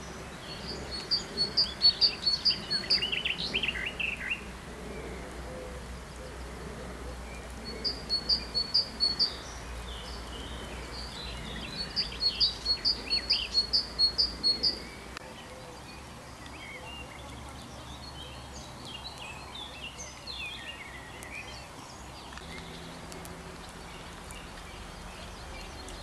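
Songbirds singing. One bird gives three loud phrases of rapid, evenly repeated high notes, about a second in, around eight seconds in and around twelve seconds in, with lower falling notes alongside the first phrase. After the middle only fainter, varied calls from other birds are heard.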